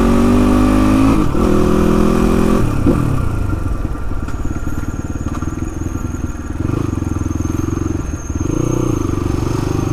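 Motorcycle engine revving up over the first couple of seconds and easing off about three seconds in, then running steadily at low speed, a little louder again near the end.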